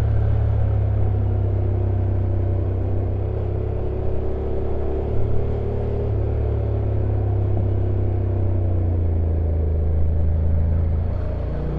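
Honda NC750X's parallel-twin engine running steadily on a downhill ride. The engine note shifts near the end.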